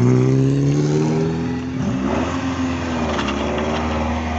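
Car engine pulling away under acceleration. The revs change sharply about two seconds in, as at a gear change, and the engine then runs on at a lower, quieter note.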